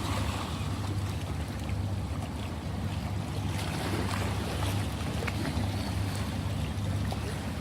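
Ocean waves washing steadily, with a constant low rumble beneath.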